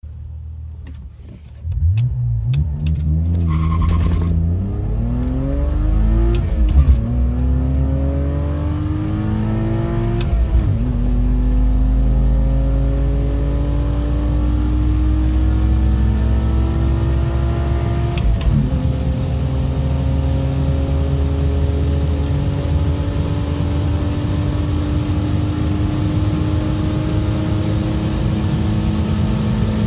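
BMW E46 325i's 2.5-litre inline-six with catless headers and a cat-back exhaust, pulling hard at full throttle from a standing start. The engine note climbs steadily in pitch, dropping back at upshifts about 7, 10 and 18 seconds in, then rises slowly in the top gear.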